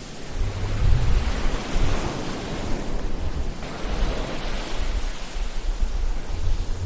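Ocean waves washing on a shore, a steady roar of surf that swells and eases every couple of seconds.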